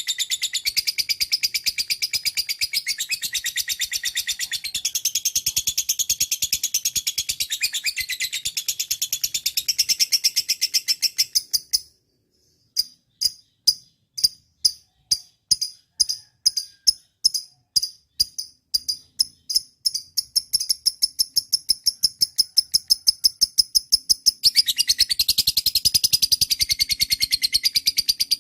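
A lovebird singing a long, rapid, high-pitched chattering song. About 12 seconds in it breaks off, then resumes as a series of sharp separate chips, about two or three a second, that come faster and faster. Near the end it runs back into full continuous chatter.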